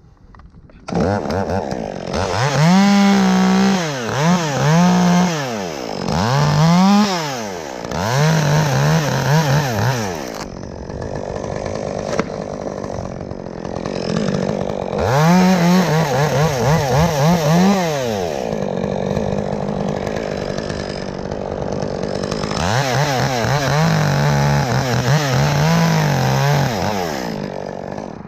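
Chainsaw running high in a tree and cutting through small top limbs in three bouts. Between them it drops back to a lower, steadier run, and the pitch rises and falls with each cut.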